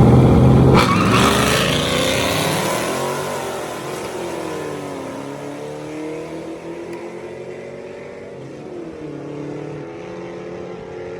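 A vehicle engine revving hard, then running on with its pitch rising and falling as the sound fades away over several seconds, as it drives off.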